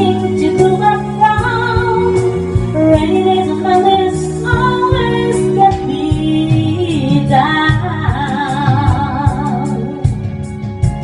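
A woman singing a slow ballad over instrumental accompaniment, with vibrato on a long held note near the end.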